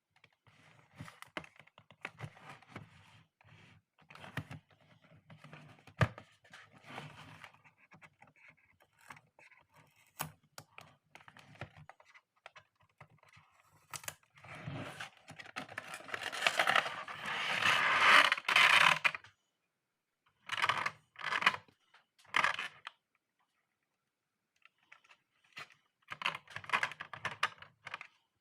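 A plastic phone holder and its packaging being handled, with irregular scraping and rustling and a few sharp clicks. About halfway through comes a louder stretch of several seconds of tearing and scraping, then a few short scrapes.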